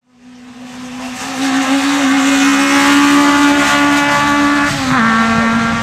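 Race car engine running hard at high revs, growing louder over the first second or so and holding a steady high note, then dropping a step in pitch about five seconds in.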